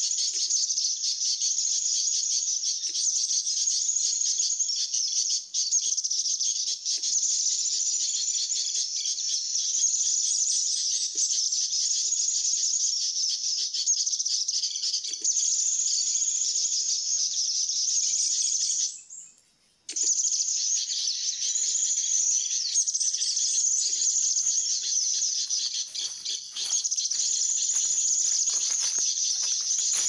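Dense, high-pitched bird chirping, continuous and steady, cutting out abruptly for about a second two-thirds of the way through before resuming.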